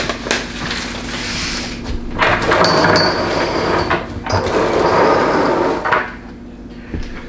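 Foam packing and cardboard scraping and rubbing as a heavy espresso machine is hauled out of its box, in three long sliding sweeps with a brief squeak partway through.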